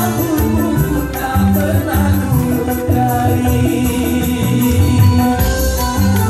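Band music in a dangdut style: a repeating bass line with tambourine and shaker percussion, and possibly some singing.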